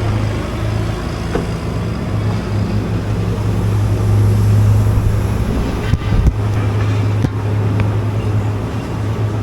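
Pickup truck engine running steadily with a low hum, with a couple of short knocks about six and seven seconds in.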